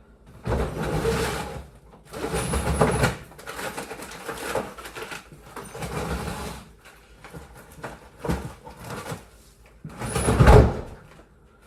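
A baking tray being lined: a sheet of liner is pulled off its roll, torn and crinkled into the tray in a series of rustling swishes about a second long each, the loudest about ten seconds in.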